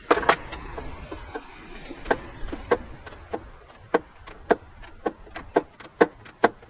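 Ratchet wrench being worked in short strokes on a tight fastener, giving a series of single sharp metallic clicks, about one to two a second, quickening near the end.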